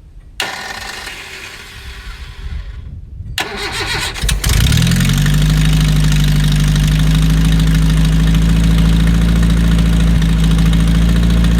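Four-cylinder engine of a 1982 Datsun wagon being cranked by the starter for about four seconds, then firing and settling into a steady idle. It holds its idle here with a vacuum line blocked off, on an engine that would not idle before.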